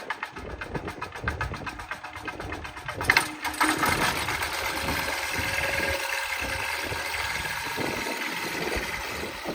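Seaplane's propeller engine running with a fast, even beat, then a sharp knock about three seconds in and the engine running louder and steadier, as when it powers up on the water.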